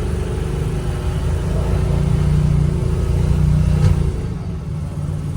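1989 Chevy K5 Blazer's engine pulling under throttle, heard from inside the cab: a steady low drone that swells through the middle and eases off about four seconds in.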